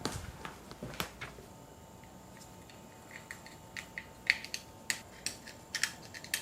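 Scattered light clicks and ticks of small bicycle parts being handled, a couple near the start and a quick run of them in the second half.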